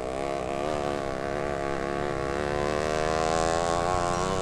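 A motor droning steadily, its pitch wavering slightly.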